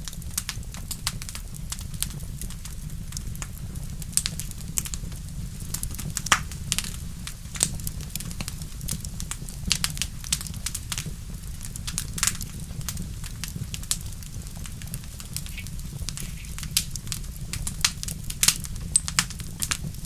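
Wood fire in a fireplace crackling, with irregular sharp pops, some louder, over a steady low rumble.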